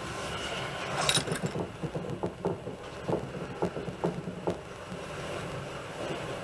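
Passenger train running, heard from inside the carriage: a steady rumble with a run of short knocks and rattles from the wheels and car body, thickest from about one to four and a half seconds in.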